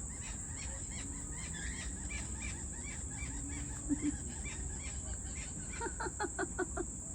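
Birds calling: a run of short chirps, then near the end a quick series of about seven louder calls. A steady high insect drone runs underneath.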